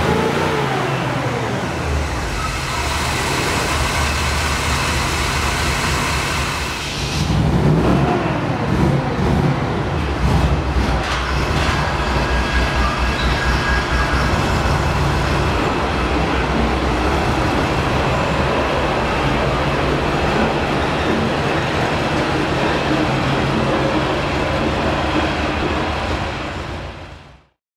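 Motor vehicle engine running steadily, with the pitch rising and falling about seven seconds in. The sound cuts off abruptly near the end.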